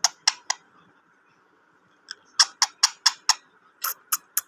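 A parrot making rapid short clicks, about four a second. A few come at the start, then after a pause of over a second a longer run follows.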